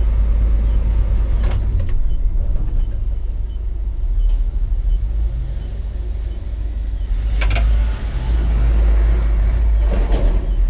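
Hino 500 FM 260 JD truck's six-cylinder diesel engine running steadily while driving, heard from inside the cab as a deep, continuous rumble. A light tick repeats about every 0.7 seconds, and there are brief rattles about one and a half, seven and a half and ten seconds in.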